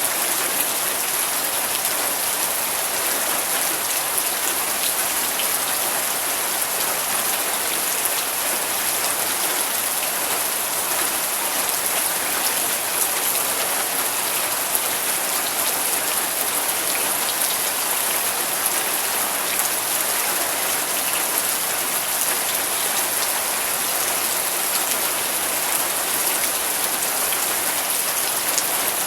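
Steady rain falling, an even hiss of many drops with fine drop ticks throughout.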